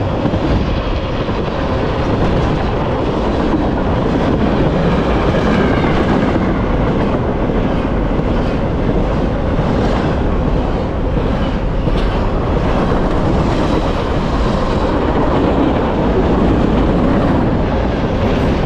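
Norfolk Southern freight train's cars rolling past at speed: a steady rumble and rattle of steel wheels on the rails, with an occasional sharp click.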